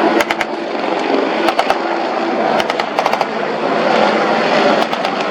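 About four short bursts of automatic gunfire, blank rounds in a staged combat demonstration, over the steady drone of military engines.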